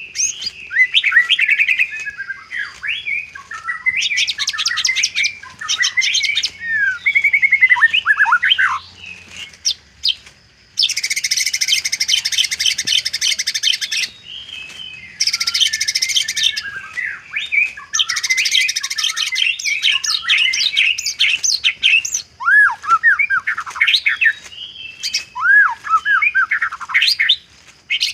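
White-rumped shama (murai batu) singing a varied, mimicry-filled song: clear whistled phrases that swoop down and up, broken by several long harsh, buzzing chatters.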